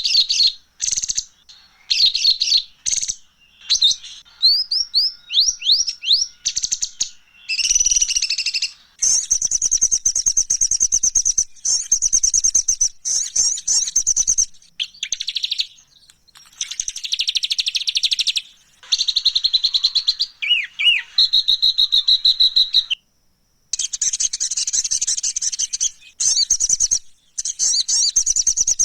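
Songbird masteran recording of harsh-style song: fast, dense chattering trills and twittering phrases, with a short run of quick rising whistled notes early on the way. The song breaks off abruptly several times, as in an edited, looped track.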